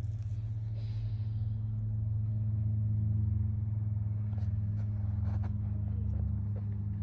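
Steady low engine hum, like a motor running at idle, with a few faint clicks.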